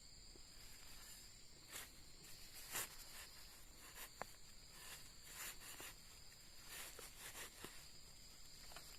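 Steady high-pitched drone of insects, crickets or cicadas, with scattered soft rustles and light clicks throughout.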